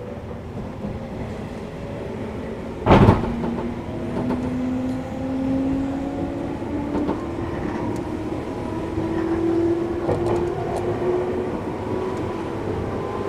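JR 211 series electric train heard from inside the carriage while running, its motor and gear whine rising slowly in pitch as it gathers speed. A loud, sudden thump comes about three seconds in.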